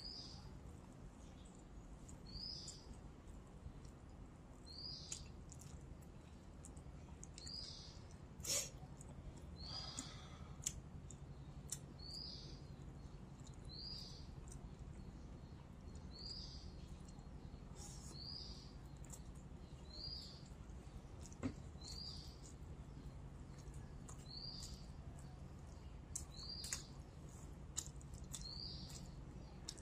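A bird repeating a short high chirp about every two seconds, over a low steady hum, with a few sharp clicks; the loudest click comes about eight seconds in.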